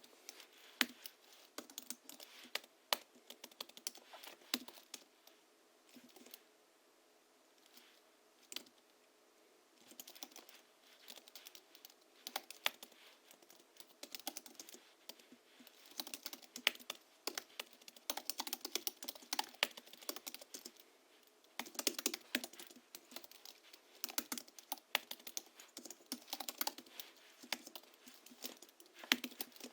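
Typing on a Hansung GHL-5X keyboard fitted with 50 g rubber domes, Krytox-lubricated springs and sound-absorbing foam. A few scattered keystrokes come first, then quicker runs of typing with short pauses.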